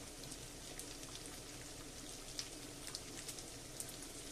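Minced pork and beef with finely chopped vegetables frying in a pan at medium-high heat: a faint, steady sizzle with scattered small crackles and pops.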